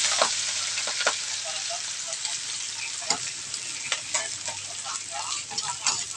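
Chopped spring onion sizzling in hot oil in a frying pan, the sizzle slowly dying down as the oil cools around it. A spatula scrapes and clicks against the pan as it is stirred.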